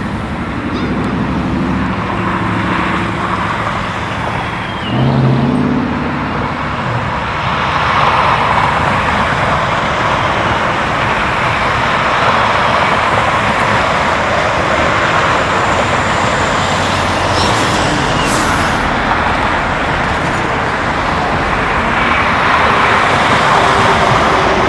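Steady rush of freeway traffic and road noise, with a low engine hum in the first few seconds.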